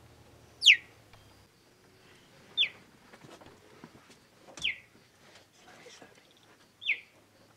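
Cheetah chirping: four short, high, bird-like chirps, each falling sharply in pitch, about two seconds apart.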